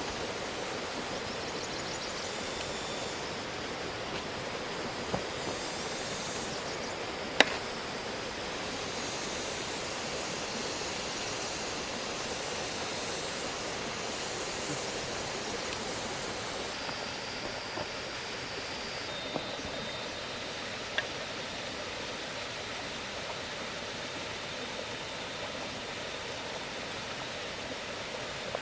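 Steady, even rushing outdoor noise, with one sharp knock about seven seconds in and a few fainter ticks later.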